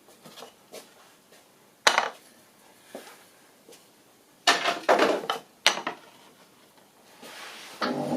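Sharp clinks and knocks of tools and timber being handled on a workbench: one about two seconds in and a quick cluster around five seconds. Near the end a power tool starts to run.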